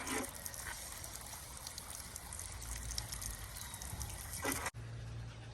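Water trickling and splashing, with scattered small clicks and a sharper splash or knock just after the start and again about four and a half seconds in. It cuts off abruptly near the end to a quieter background with a low hum.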